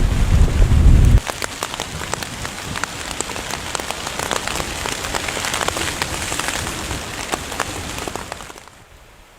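Wind buffeting the microphone as a loud low rumble, cutting off about a second in. Heavy rain then falls, with many sharp individual drop hits on a surface, and fades down near the end.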